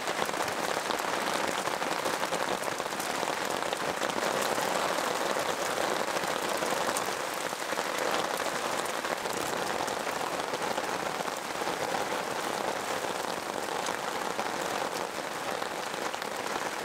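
Heavy rain pouring down onto a lake's surface: a dense, steady hiss of countless drops hitting the water.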